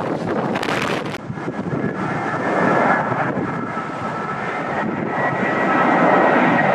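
Airliner engines whining, with steady high tones that build and grow louder toward the end. Gusts of wind buffet the microphone in the first second or so.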